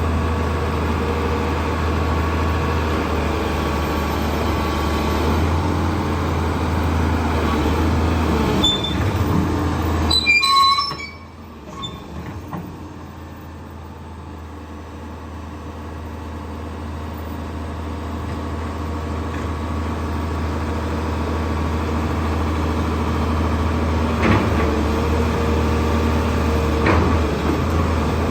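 Doosan DX225 crawler excavator's diesel engine running steadily, with high metallic squeals about ten seconds in. The sound then drops suddenly and builds back slowly, with two sharp clunks near the end.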